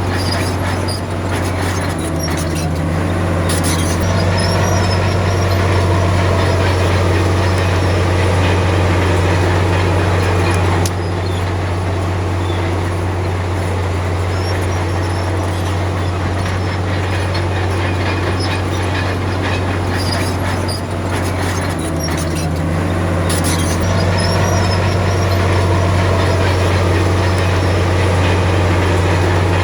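Komatsu D53P crawler bulldozer's diesel engine running steadily under load, a deep drone with the rattle and clank of its tracks over it.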